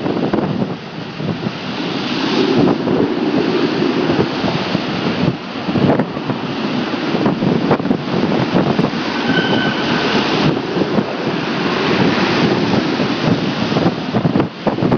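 Typhoon winds blowing hard across the microphone, a loud, gusting rush that swells and dips every few seconds.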